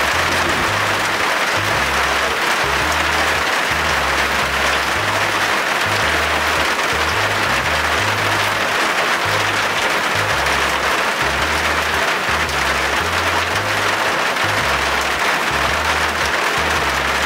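Heavy rain falling steadily in an even hiss, mixed with background music that has a slow, repeating bass line.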